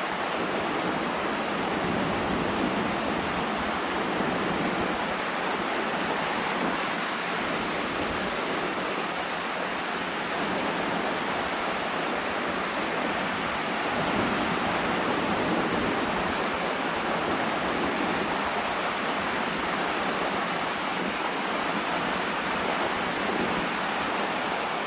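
Strong wind and lake waves surging onto the beach, heard as a steady, loud rushing noise that swells and eases slightly.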